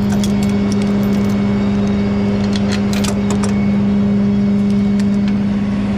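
A tow truck's engine running with a steady, even hum, and a few sharp metallic clicks about a quarter-second in and again around two and a half to three seconds in.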